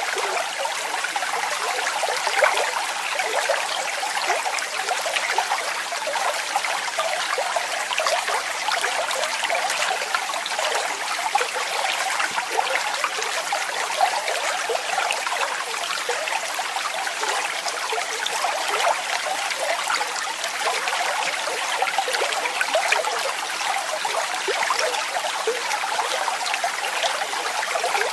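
Waterfall: falling water splashing steadily, a continuous bright rush of many small splashes with little deep rumble.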